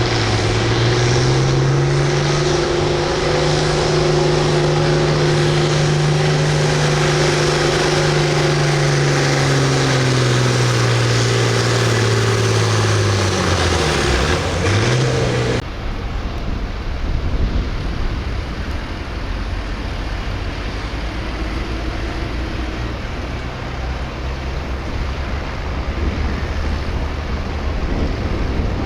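Farm stock tractor engine pulling a sled under full load: its note climbs, holds steady for about ten seconds, then sinks in pitch as the engine is dragged down. About halfway through the sound cuts off suddenly to a quieter steady low rumble with wind noise.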